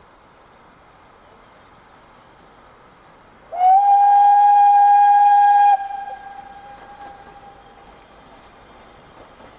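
Steam locomotive whistle: one blast of about two seconds, starting a few seconds in as a single steady tone that rises briefly at its start, then cuts off sharply and leaves a fading echo. Steady background noise before and after it.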